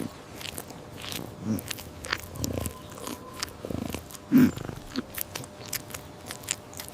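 Irregular crunching and clicking, short and uneven, with a louder crunch about four and a half seconds in.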